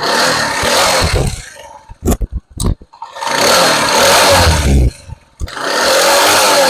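Motorcycle engine running and revved in three long bursts of throttle, with a few sharp clicks in the lull about two seconds in.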